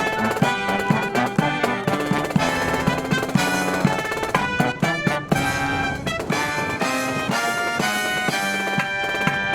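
A marching brass band playing: trumpets and trombones over drums in quick rhythmic figures, settling into a held chord near the end.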